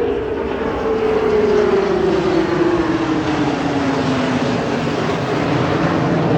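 An aircraft flying past with a loud, rushing engine noise. Its tone falls steadily in pitch as it goes by.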